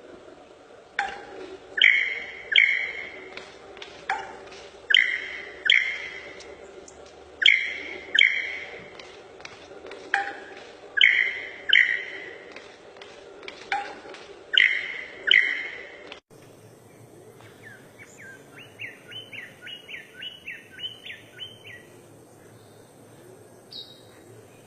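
Bird song: loud, clear calls in phrases of two or three notes, repeating every few seconds. After a sudden cut, a different bird gives a quick run of about a dozen short chirps.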